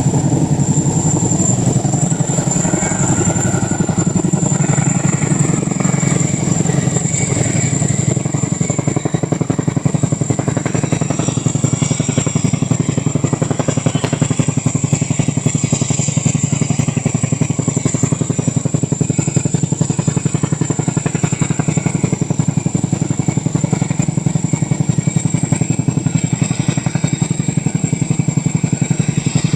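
Chinook tandem-rotor helicopter running: a fast, steady beat from its rotor blades under a high, steady turbine whine.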